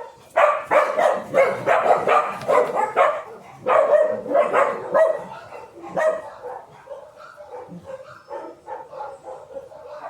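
A dog barking in quick runs, about four barks a second: two loud runs in the first five seconds, then fainter barking.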